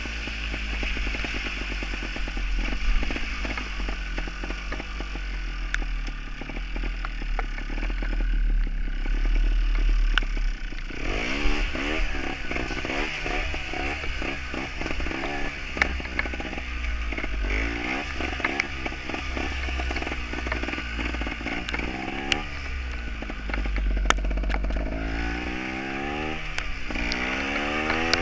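Gas Gas trials motorcycle's two-stroke engine running, steadier at first, then revved up and down in repeated throttle blips from about halfway in, with scattered sharp knocks and clatter and a deep low rumble underneath.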